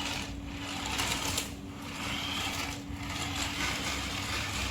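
Small electric motor and plastic gears of a toy remote-control monster truck whirring steadily, swelling and fading every second or so.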